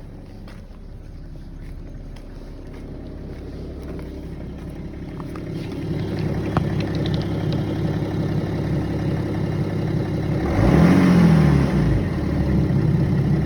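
BMW 330d's M57 three-litre inline-six diesel idling warm, getting gradually louder, with one quick rev up and back down to idle about ten seconds in. At idle it has the knocking noise that the owner says comes only when warm and vanishes above about 1000 rpm.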